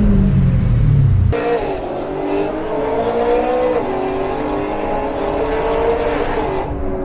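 Loud performance car engines and exhausts revving, with a deep rumble in the first second. After an abrupt change, an engine is held at high revs, its pitch rising and falling.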